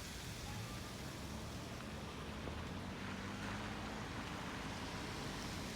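Steady outdoor background noise with a faint low hum underneath.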